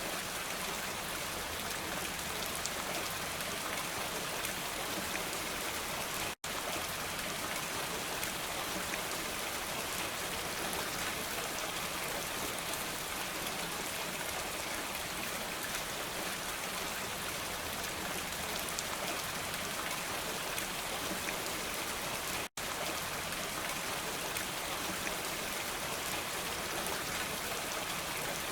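Steady rain falling, an even hiss of many drops with no thunder. The sound cuts out completely for a split second twice, about six seconds in and again near twenty-two seconds.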